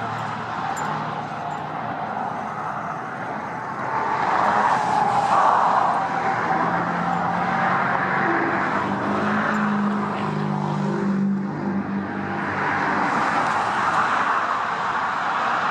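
Road traffic: passing motor vehicles, their engine hum and tyre noise swelling and fading several times.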